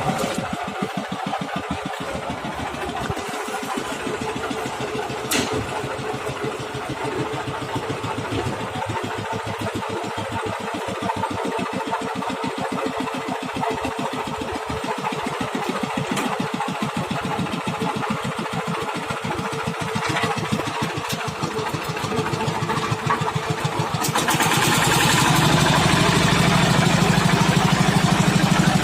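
Tractor engine of a small road roller (baby roller) running with an even pulse, growing louder and fuller near the end.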